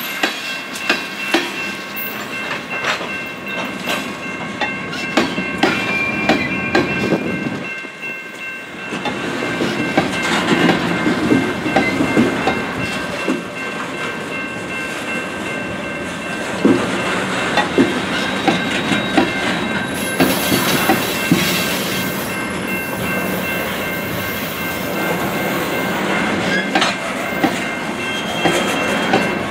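Freight train cars rolling by, steel wheels giving a repeated click-clack as they pass over a noisy rail joint at the crossing. A steady ringing from the grade-crossing bell sits under it.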